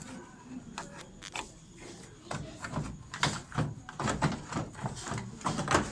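Irregular clicks and knocks of washing-machine parts being handled and fitted during reassembly. The knocks come closer together and louder in the second half.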